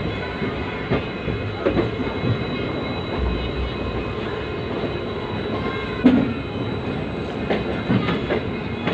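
Indian Railways passenger train running, with a steady rumble and the clatter of wheels over the rails. A sharper knock comes about six seconds in.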